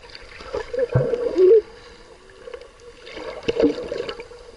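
Sea water splashing and sloshing around a swimming child, with irregular louder splashes about a second in and again past the middle.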